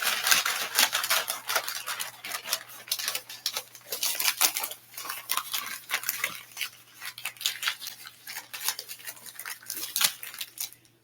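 Wood fire crackling in a wood stove: a dense, irregular run of sharp pops and snaps, over a faint steady low hum.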